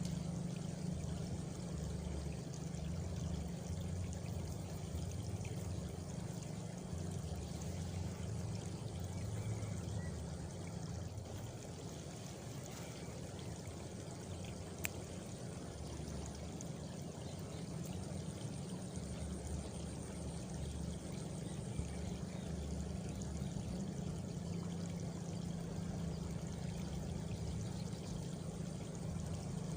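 Steady countryside ambience of rushing, water-like noise, heavy in the low end. A faint high insect trill runs through the second half, and a single sharp click comes about halfway.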